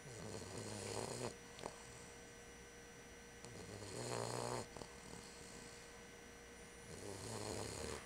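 Bulldog puppy snoring in its sleep: three long, low-pitched snores, about three and a half seconds apart.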